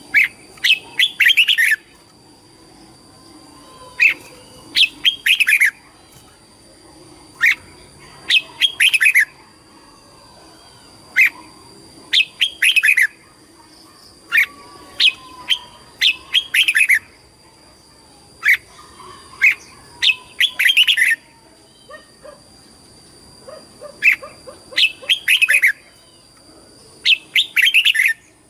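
Red-whiskered bulbul singing short, quick warbled phrases, repeated in bursts every two to four seconds, over a faint steady high-pitched whine.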